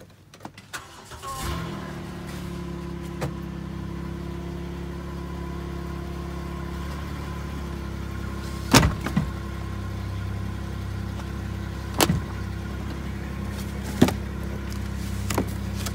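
A car engine starts about a second and a half in and idles steadily, with several sharp knocks in the second half as things are handled in the back of the car.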